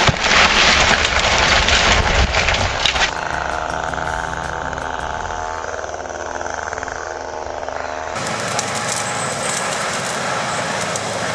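Heavy forestry machinery running in three clips cut together: a dense, noisy machine sound for about three seconds, then a steadier engine hum, then a harsher, brighter engine noise from about eight seconds in.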